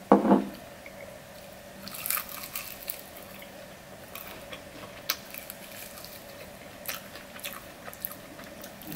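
Biting into and chewing an extra-crispy fried chicken wing: a crunchy bite about two seconds in, then wet chewing with scattered crackles of the breading, over a faint steady hum. A brief louder mouth or voice sound comes at the very start.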